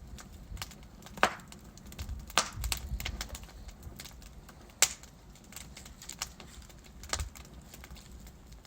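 Wood fire burning in a fireplace: logs crackling and popping irregularly over a low steady rumble of flame, with a few sharper snaps standing out.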